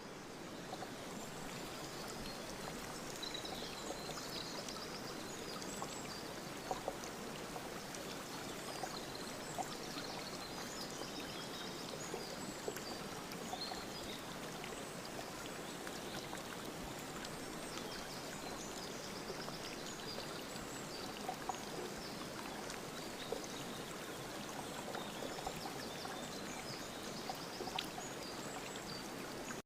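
Steady rush of flowing water, like a stream, with faint high chirps scattered over it.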